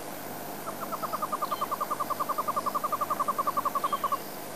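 A hornbill calling: a rapid series of short clucking notes, about ten a second, that grows louder and then stops abruptly.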